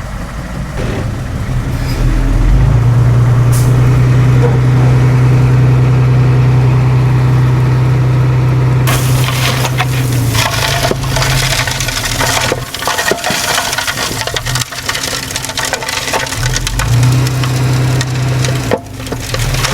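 Diesel engine of heavy earthmoving machinery running hard with a steady low drone, then from about halfway a dense crunching and crackling of soil and debris, while the engine drone weakens and returns near the end.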